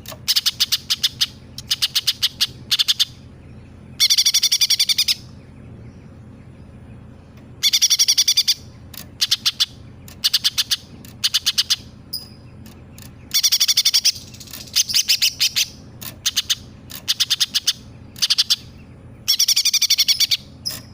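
Cucak ijo (green leafbird) singing, mimicking tree sparrow chirps and tengkek buto kingfisher calls. It repeats high, rapid trilled phrases, each about a second long, with short pauses between.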